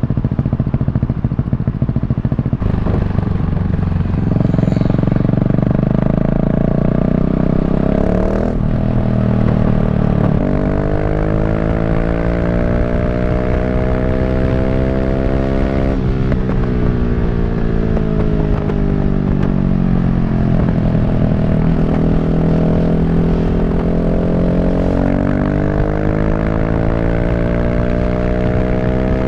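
KTM 690 SMC R's single-cylinder engine under way, revving loudly through the gears. The pitch climbs, breaks at a shift about eight seconds in, climbs again, then drops at another shift and falls away as the bike slows before building up again near the end.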